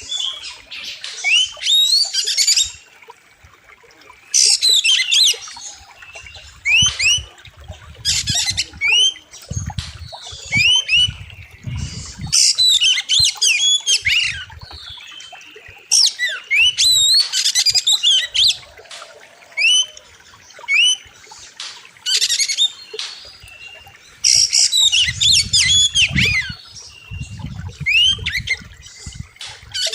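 Oriental magpie-robin singing loud, sharp phrases of rapid rising and falling whistles and chattering notes. The phrases come in bursts every second or two with short pauses between them. A low rumble is heard twice, in the middle and near the end.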